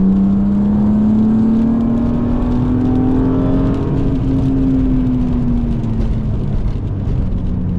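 BMW E36 M3's straight-six engine, breathing through an aftermarket intake and exhaust, pulling in gear under load. Its pitch climbs slowly for about four seconds, then eases back and holds steady, with road and tyre rumble beneath.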